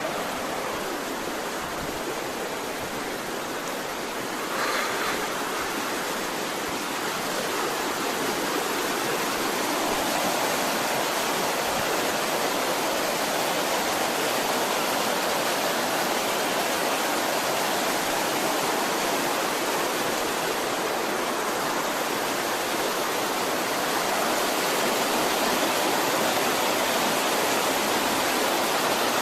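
Small shrine waterfall splashing and rushing steadily, a little louder after about eight seconds. A brief higher-pitched sound stands out about five seconds in.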